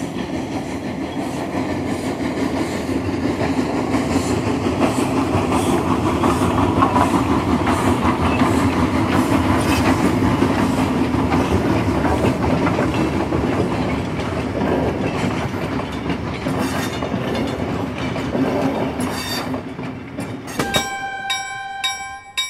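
A train running on rails: a steady rumble of wheels with clickety-clack that swells and then eases off, and a train horn sounding for about two seconds near the end.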